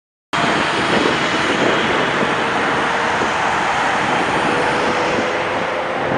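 Jet airliner engines running, a loud steady rushing noise with a faint steady tone in it, cutting in abruptly just after the start.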